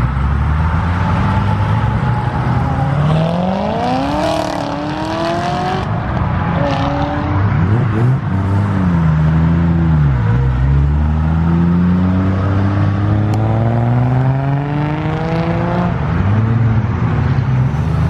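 High-performance cars revving and accelerating away, the engine pitch climbing and dropping several times as they pull out, over a constant loud engine rumble.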